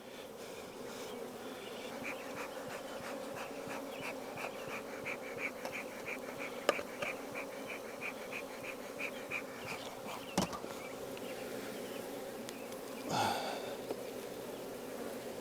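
Honeybees buzzing around an open hive: a steady hum. Two sharp knocks come partway through, and about thirteen seconds in a louder buzz drops in pitch.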